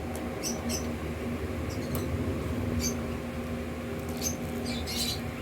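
Close-up mukbang chewing of crispy fried chicken intestines: scattered short crunches and wet mouth clicks, a cluster of them near the end, over a steady low hum.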